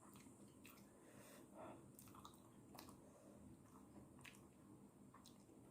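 Faint chewing of instant noodles, with scattered small mouth clicks and smacks.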